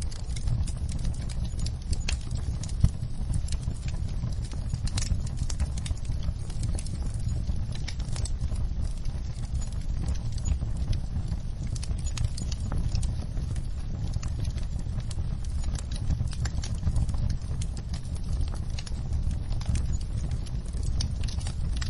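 Wood fire burning in a fireplace: a steady low rumble of flames with many small, irregular crackles and pops from the logs, and one louder pop about three seconds in.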